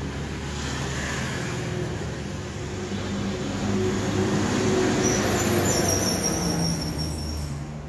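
A motor running steadily, growing louder to a peak about five seconds in and then easing off near the end.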